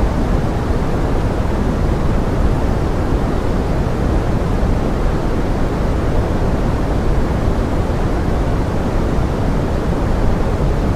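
Pink noise blended with forest rain: a steady, even hiss weighted toward the low end that does not change.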